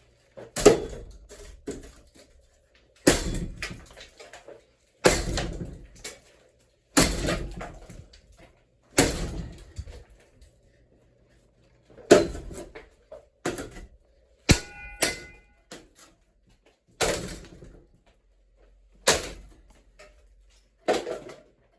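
A ceiling fan blade being struck hard over and over, a heavy thump about every two seconds, a dozen in all. A faint steady hum runs underneath, and about two thirds of the way through one hit gives a brief ringing tone.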